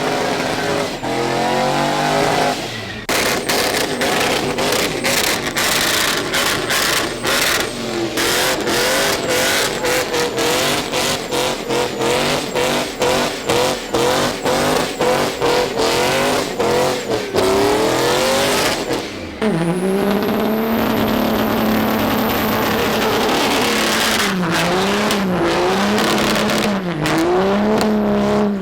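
Diesel truck engine revving hard, its pitch rising and falling repeatedly, with a fast choppy stutter through the middle stretch. A high whistle comes in about twenty seconds in, then the engine is blipped up and down several times.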